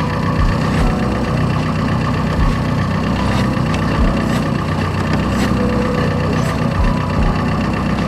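Rover Mini's engine idling steadily.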